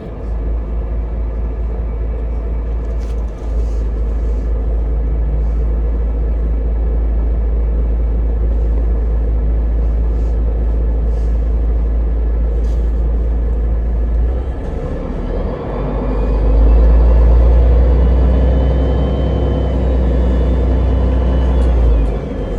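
Low, steady rumble of a route-42 public-transport vehicle running, heard from on board. It grows louder for several seconds past the middle, with a faint high whine, then eases again near the end.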